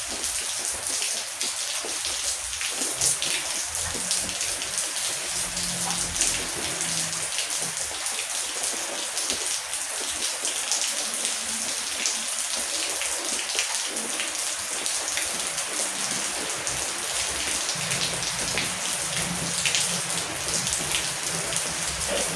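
Heavy rain falling steadily: a dense, even hiss with many individual drop hits standing out.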